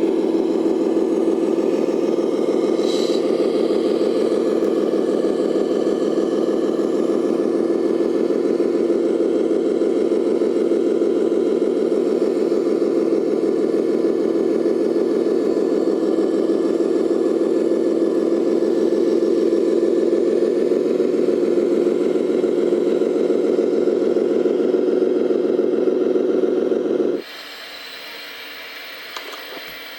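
RC model vehicle running steadily with an engine-like drone and a fast, fine rattle, then cutting off abruptly near the end.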